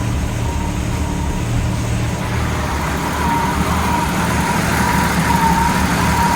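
A 1965 Ford Mustang's engine idling steadily, its carburettor idle mixture just richened to about 14–15 air-fuel. From about three seconds in, a faint whine wavers up and down over the idle.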